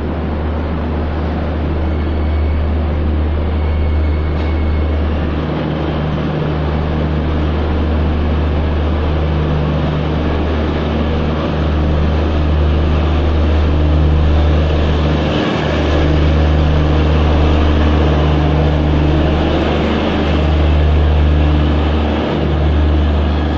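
Chandigarh–Bandra express passenger train rolling past along the platform as it departs: a steady rumble of wheels and coaches, with the last coach passing near the end.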